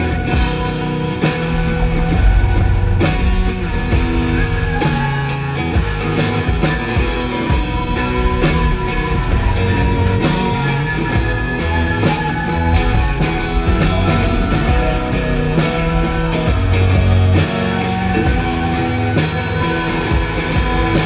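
Live rock band playing an instrumental passage: electric guitar and bass over a drum kit keeping a steady beat with cymbal hits.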